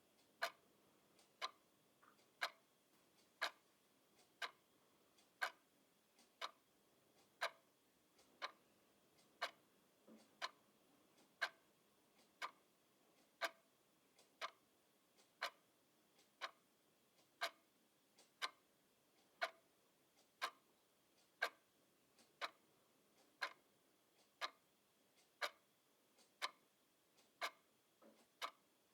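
A clock ticking steadily at about one tick a second, some ticks louder than others.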